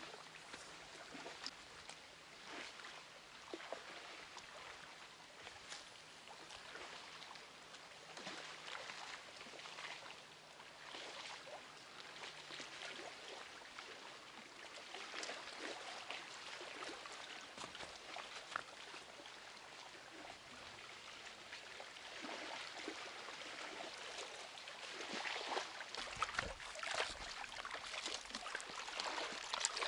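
Faint lapping and trickling of river water, with small light splashes, growing a little louder near the end.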